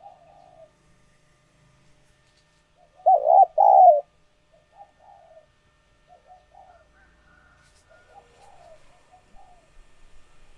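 Spotted doves cooing. Two loud coo notes come about three seconds in, followed by a run of fainter, shorter coos.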